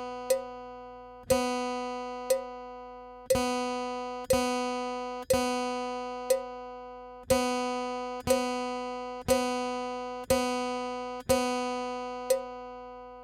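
Acoustic guitar's open second string plucked slowly and repeatedly on the note B, each note ringing on, over a steady click about once a second that keeps the beat.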